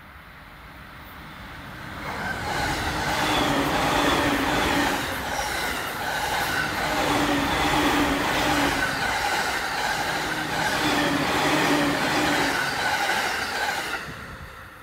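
A JR East suburban electric multiple-unit train passing close by at speed. The wheels roll on the rails with a humming tone that comes and goes. It swells up about two seconds in and falls away about fourteen seconds in as the last cars go by.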